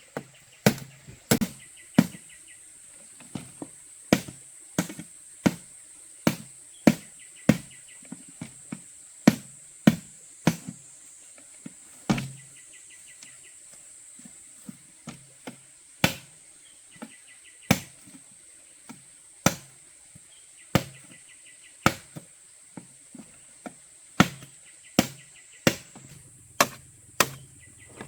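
Repeated chopping blows, a blade striking wood or bamboo, sharp and unevenly spaced at about one or two a second. Behind them insects keep up a steady high buzz, with short chirping trills coming and going.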